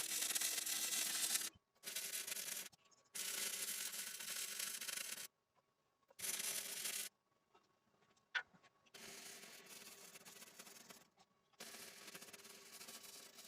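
Abrasive sanding or scraping noise in a string of bursts of one to three seconds, each starting and stopping abruptly, with short silent gaps between them; the last stretch, from about nine seconds in, is quieter.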